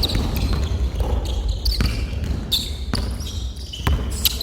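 Basketball bouncing on a court floor, several sharp bounces, with short high squeaks in between.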